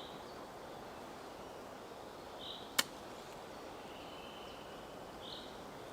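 Quiet outdoor background hiss with a few short, high chirps from a small bird. A single sharp click comes just before the middle.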